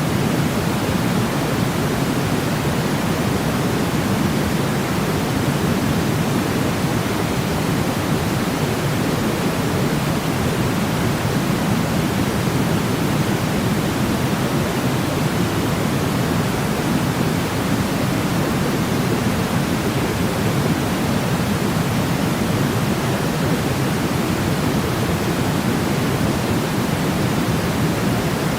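Steady synthetic pink-style noise, a constant even hiss weighted toward the low end, played as a sleep sound for babies.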